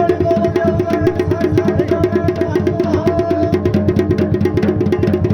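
Dhol and damau drums playing a fast, steady rhythm for Pandav Nritya, with a held melody line sounding over the drumming.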